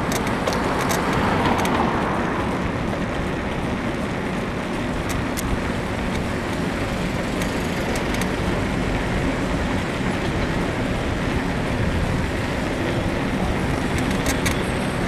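Steady wind and road noise from riding a bicycle, with scattered sharp clicks and creaks from the bike's frame, which the rider puts down to a worn suspension bushing.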